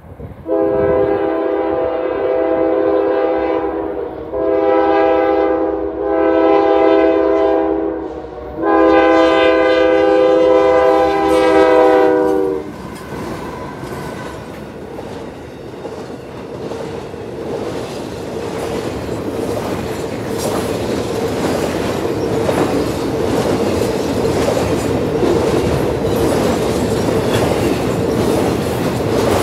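Norfolk Southern GE AC44C6M locomotive's air horn sounding four blasts for the crossing, the second one short and the last the longest, its pitch dipping slightly as the locomotive reaches the crossing. The horn then stops and the freight train runs past, wheels clattering over the rail joints with a steady rumble as double-stack intermodal cars follow the locomotives.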